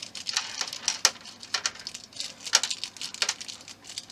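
Light clicks and taps of small screws and plastic model parts being handled on a work surface, with two sharper knocks about one second and two and a half seconds in.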